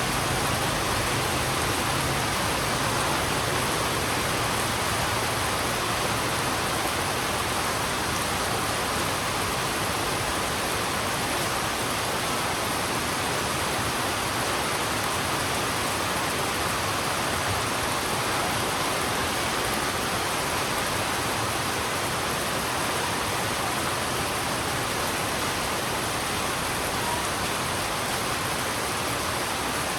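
Heavy rain falling steadily, a dense even hiss of drops on a hard surface.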